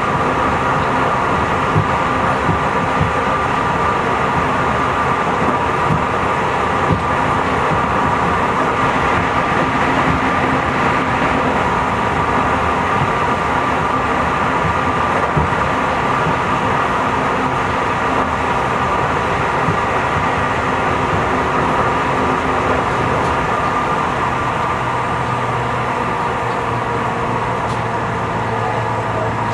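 Tobu 50090 series electric train running at speed, heard from inside the passenger car: a steady rumble of wheels on rail with a steady whine over it. It gets slightly quieter near the end.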